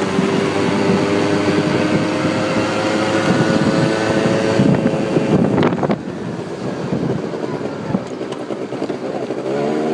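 Quad bike engine under way, holding a steady pitch for about five seconds, then dropping off suddenly as the throttle is eased, and rising in pitch again near the end as it accelerates.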